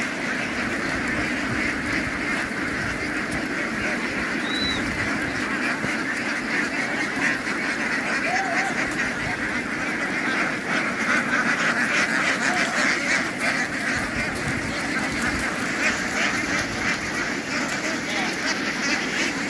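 A large flock of ducks quacking all together in a dense, unbroken din.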